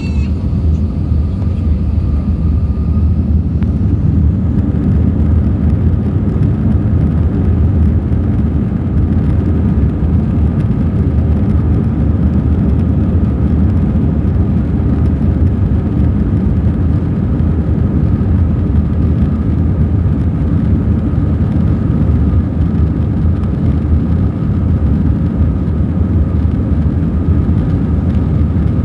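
Airbus A321 jet airliner's engines and airframe making a steady, loud low rumble with a faint steady whine above it, heard from inside the cabin.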